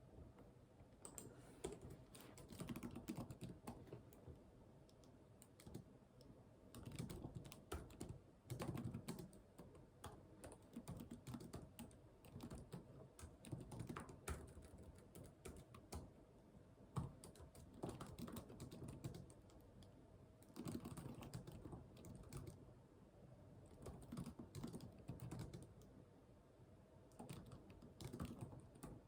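Typing on a computer keyboard: quick runs of key clicks a few seconds long, broken by short pauses.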